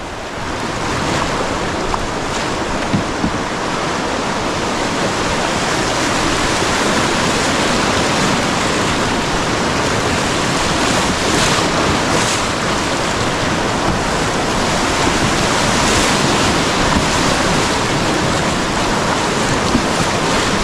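River whitewater rushing loudly around a canoe as it runs a set of rapids, a steady wash of water noise that builds over the first few seconds and then holds.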